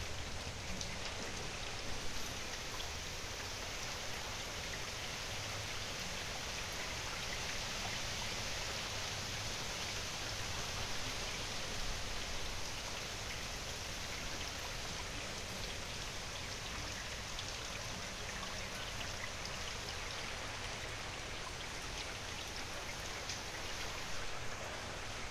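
Steady rain falling, with scattered sharper ticks of individual drops.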